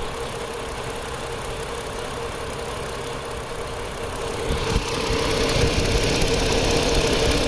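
Chrysler 2.7-litre V6 idling rough on a dead cylinder 2, which is getting no injector pulse, with a steady whine over the uneven low running. About four and a half seconds in, a louder rushing noise joins.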